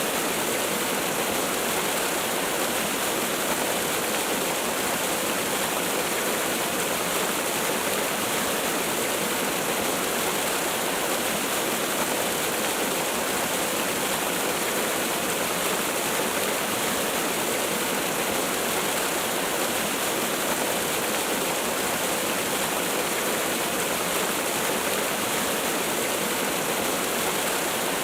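Waterfall: water falling and splashing in a steady, even rush of noise with no change in level.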